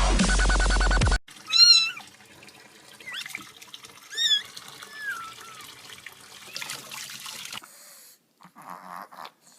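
Electronic music cuts off about a second in. Then a cat meows: two loud meows and a few softer ones, over a faint steady hiss.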